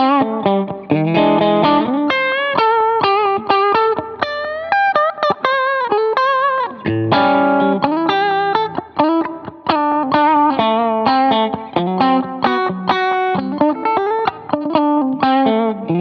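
Electric guitar, a Fender Stratocaster, playing fast single-note lead lines with string bends and vibrato, through a warm analog delay pedal and an HX Stomp amp modeller.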